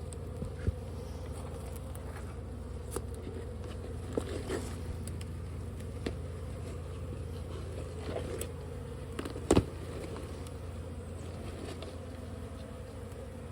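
Honeybees buzzing steadily from a colony exposed in brickwork, with scattered short knocks and scrapes, the loudest about nine and a half seconds in.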